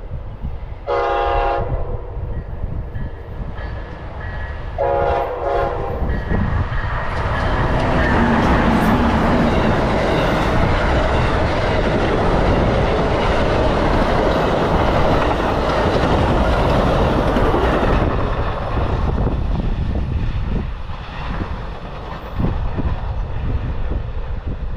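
Amtrak passenger train's horn giving two short blasts a few seconds apart, then the train passing close by. The rumble and clatter of the cars builds, stays loud for about ten seconds and then eases off.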